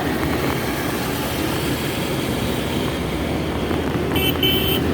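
Steady road and engine noise inside a moving Maruti Suzuki Eeco, with two short horn toots about four seconds in.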